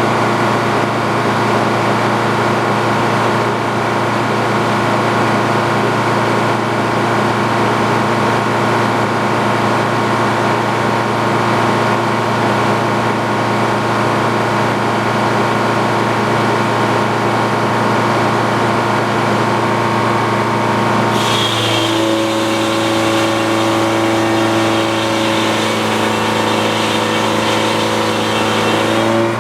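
Antique Frick sawmill running steadily with a machine hum. About two-thirds of the way through the sound changes abruptly: a hiss joins and the pitch shifts, as the saw cuts into a log.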